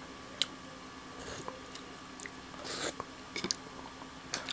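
Mouth sounds of a person eating: chewing and lip smacks with a few sharp clicks, and a longer, noisier mouth sound about two and a half seconds in.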